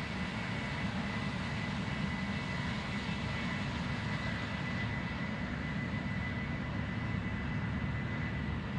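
Cessna Citation Excel/XLS business jet's turbofan engines running steadily: a low rumble with a thin, steady whine over it.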